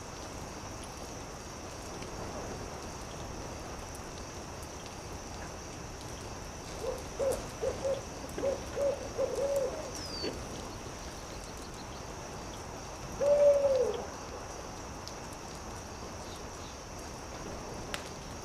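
An owl hooting: a quick run of about eight short hoots, then a single longer, louder hoot that falls in pitch at its end. Beneath it runs a steady hiss with a few faint crackles of a campfire.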